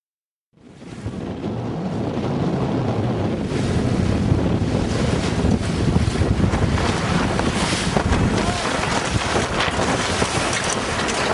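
Wind buffeting the microphone over the rush of water and waves around a sailing yacht under way. It starts abruptly from silence about half a second in and then stays steady.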